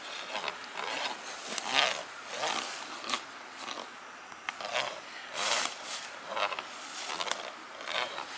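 Worm grunting: a stick driven into the ground being rubbed across its top in irregular rasping strokes, about one or two a second, to send vibrations down through the soil that draw earthworms to the surface.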